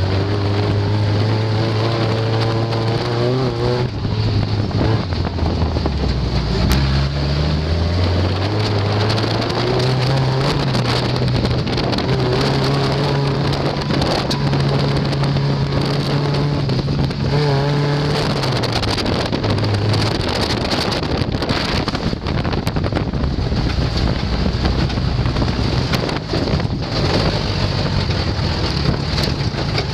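Off-road race car's engine heard from inside the cab while driving on a dirt track, its pitch climbing and dropping with the throttle and gear changes, over a constant rushing noise and scattered knocks and rattles. The engine tone fades about two-thirds of the way through, leaving mostly the rushing noise.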